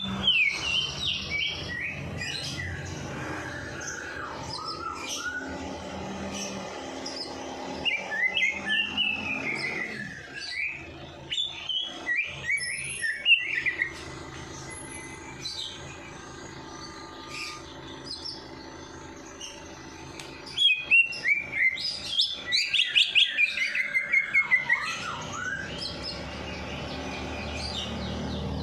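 Small songbirds chirping and twittering in rapid, pitch-sweeping phrases that come in three bursts, near the start, around a third of the way in and again past the middle. It is a stimulant birdsong track played to coax caged songbirds into singing.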